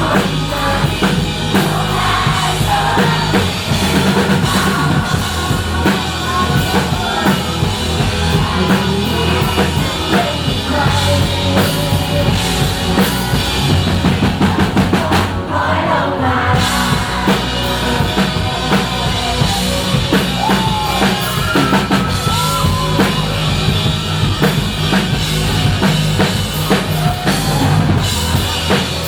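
Rock band playing live: full drum kit with a steady bass drum beat, bass guitar, and a wavering melodic lead over it. About halfway through, the cymbals and high end drop out for about a second, then come back.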